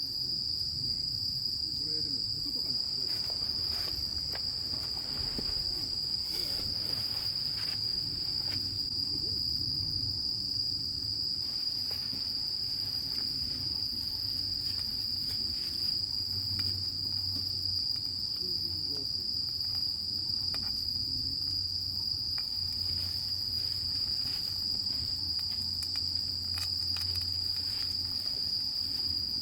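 Steady, high-pitched chirring of crickets, a continuous insect chorus, with faint scattered ticks underneath.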